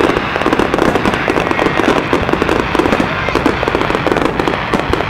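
A firework display going off in a dense, rapid barrage: many shells bursting close together in quick bangs and crackles, with no pause.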